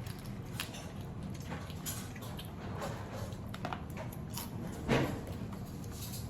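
Close-up eating of raw marinated crab: scattered crunches and wet mouth sounds as the shell of a crab leg is bitten and chewed, with one louder knock about five seconds in.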